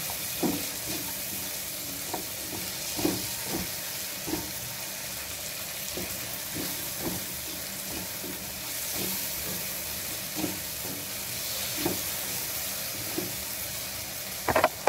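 Chicken, chickpeas and a yogurt spice masala frying in oil in a non-stick pan, sizzling steadily, while a spatula stirs them with irregular scrapes and taps against the pan; a louder scrape comes near the end.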